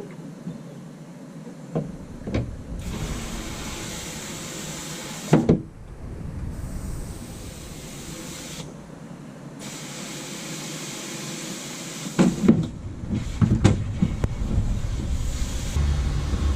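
Water running into a boat's live well as it is filled, a hiss that comes in spells and starts and stops abruptly, with a few knocks from handling.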